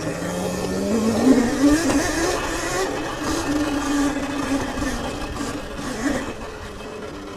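Sur-Ron electric dirt bike motor whining as the bike accelerates. The whine climbs quickly in pitch over the first second or so, holds fairly steady, and drops off about six seconds in, over a rushing noise.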